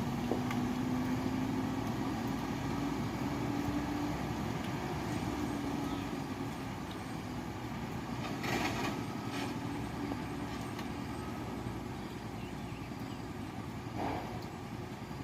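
Diesel engine of a dump truck running as it passes, a steady low rumble that slowly fades. Two short hisses come about halfway through and near the end.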